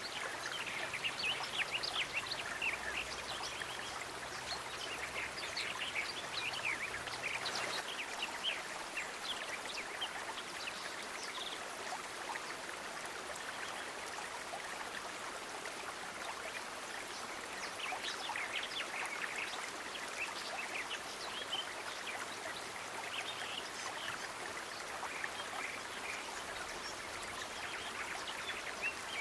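Flowing water: a steady rush with spells of lively trickling and splashing, busiest in the first third and again after the middle.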